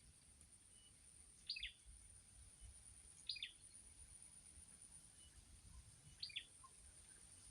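A small bird chirping three times, each call a quick high note dropping in pitch, a couple of seconds apart, over a faint steady high whine.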